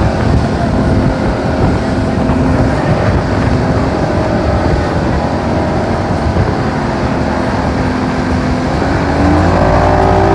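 A boat's engine running steadily under a wash of water and wind noise. About nine seconds in it grows louder and rises in pitch.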